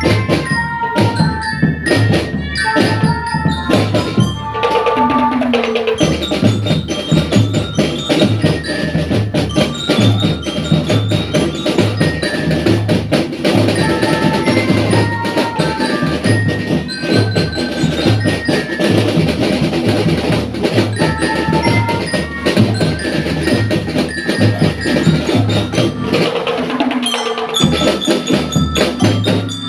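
School drum band playing: drums keep a steady beat under a melody on mallet bells.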